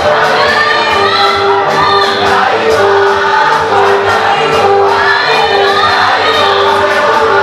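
A choir singing an African gospel song in harmony over a steady beat, loud and continuous.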